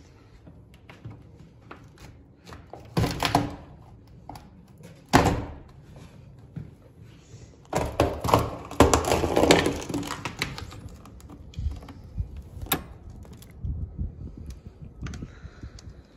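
A series of knocks and thumps, the loudest clustered about three, five and eight to ten seconds in.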